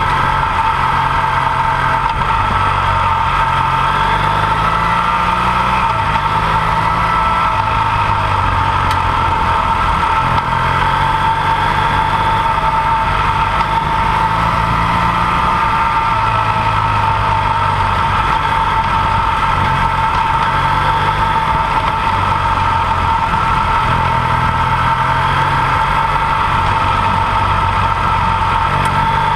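Dual-sport motorcycle engine running under way, its pitch stepping up and down every second or two with throttle and gear changes, over a steady high-pitched whine.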